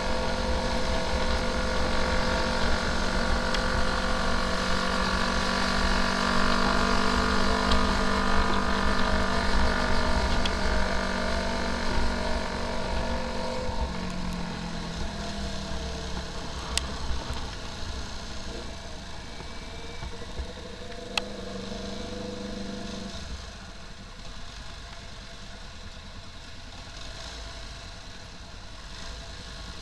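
Motorcycle engine running while riding, with rumble in the low end. About halfway through the engine note drops in pitch and gets quieter as the bike slows. Its hum cuts off abruptly near the three-quarter mark, leaving a quieter steady running sound.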